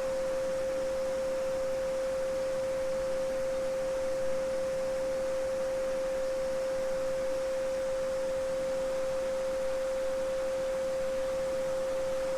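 A steady 528 Hz pure sine tone (the "Solfeggio frequency") held without change, over the soft, even hiss of a babbling brook.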